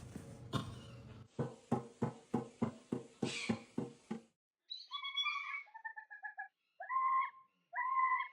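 A parrot calling: a quick run of about nine short, evenly spaced squawks, then a series of clear whistled notes and short phrases.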